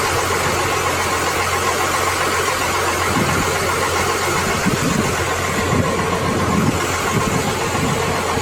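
A steady engine hum with a constant low drone, like an engine idling, with an even hiss over it.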